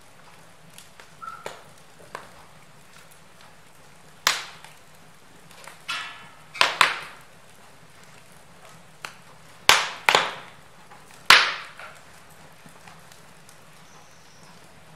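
Log fire crackling in a fireplace: a faint steady background with several sharp pops of burning wood, starting about four seconds in and loudest in the second half.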